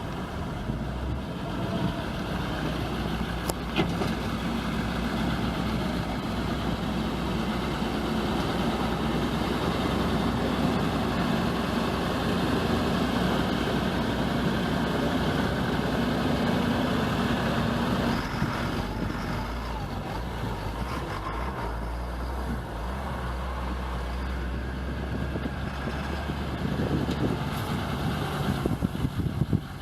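1999 International 4700 truck's T444E V8 turbo-diesel engine idling steadily, with a slight change in its note about eighteen seconds in.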